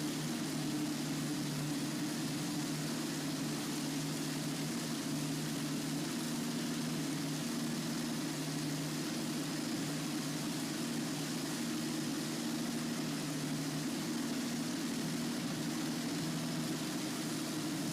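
Rolls-Royce Merlin V12 aero engine running steadily at an even, unchanging speed.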